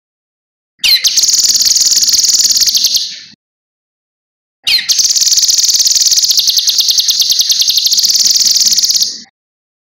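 Cucak kinoi singing two long, rapid, high trills, each opening with a quick downward sweep. The first lasts about two and a half seconds and the second, starting about a second later, about four and a half.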